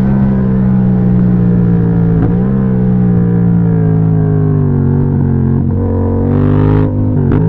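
2016 Yamaha MT-07's CP2 parallel-twin engine pulling at steady revs under way. The revs dip briefly about two seconds in and again near the end, as at gear changes.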